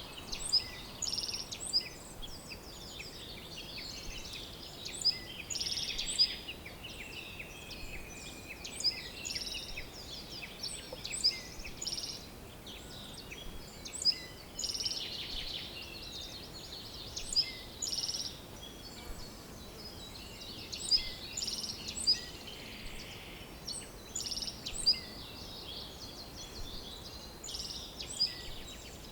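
Songbirds chirping and singing, with short sharp chirps every second or two and buzzy trills, over a soft outdoor hiss.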